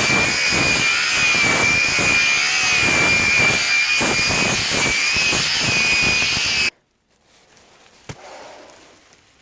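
Grinder running with a steady high whine, grinding down the surface of a fiberglass bathtub; it cuts off suddenly about two-thirds of the way through, followed by a faint click.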